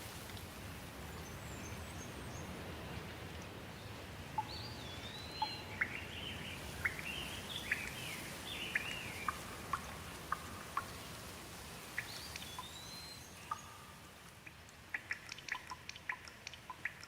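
Steady rain with birds chirping over it from about four seconds in; near the end, a run of quick sharp drips.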